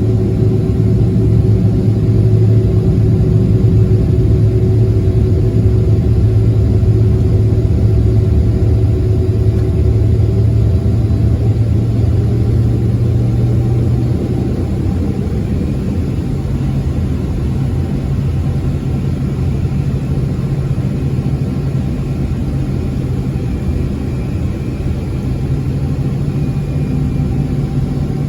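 Boeing 767-300ER engines running, heard from inside the passenger cabin: a steady low rumble with a few held engine tones that fade about halfway through, and a faint high whine in the second half.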